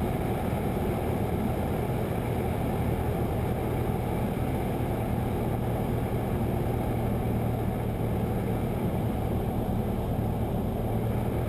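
Cessna 172's engine and propeller running steadily in the cockpit at reduced power during the approach to landing.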